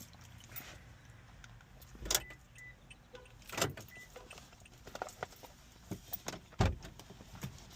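Irregular small clicks and rattles of things being handled inside a car, with three dull thumps.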